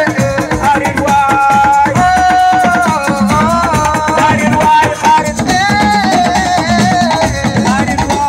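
Live assiko music: a lead voice sings long held notes that step up and down in pitch over busy drumming and rattles.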